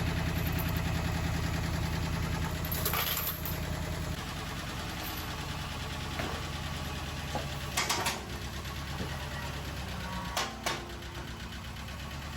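John Deere tractor engine running steadily at low speed, easing down a little about four seconds in, with a few sharp metal clanks about three, eight and ten seconds in.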